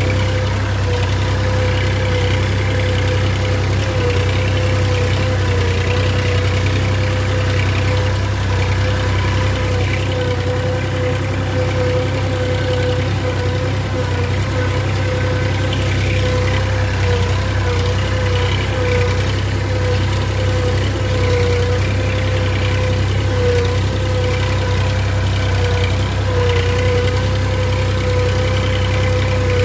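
Massey Ferguson 7250 DI tractor's three-cylinder diesel engine running at a steady speed, just after being started following a repair.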